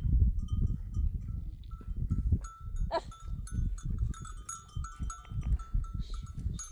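Small bells on a herd of goats and sheep tinkling irregularly as the animals move, over a steady low rumble.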